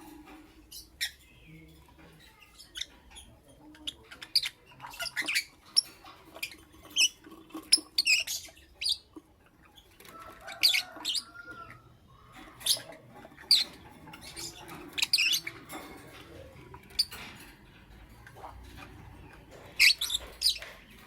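Lovebirds chirping: an irregular run of short, shrill chirps and squeaks, some much louder than others, with brief pauses between clusters.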